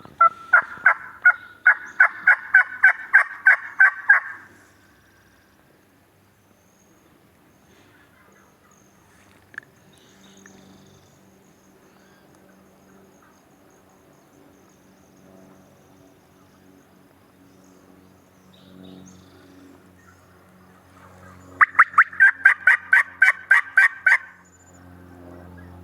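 Turkey yelping: two long runs of loud, evenly spaced notes, about four a second and each run about four seconds long, one at the start and one near the end, with quiet in between.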